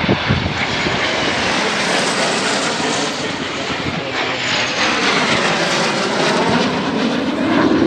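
Jet aircraft passing low: a Cessna Citation Sovereign business jet with intercepting fighter jets trailing close behind. It is a loud, steady rush of jet noise, with tones that slide in pitch as the aircraft go by, and it is loudest near the end.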